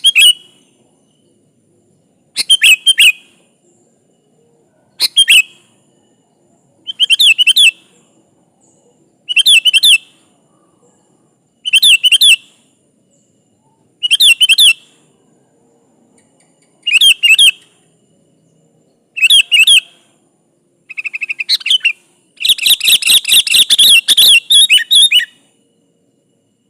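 Sooty-headed bulbul (kutilang) singing: short bubbly whistled phrases repeated about every two seconds, then a longer unbroken run of song near the end.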